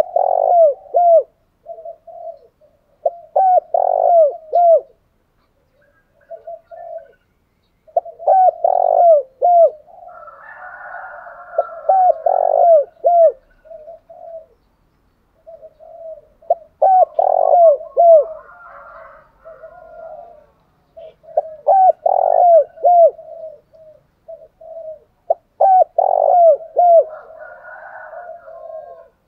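Spotted doves cooing: repeated short phrases of quick, down-slurred coo notes about a second long, separated by brief pauses, the fast bowing coo and calling song used to provoke a rival male. Softer chirping sounds under some of the phrases.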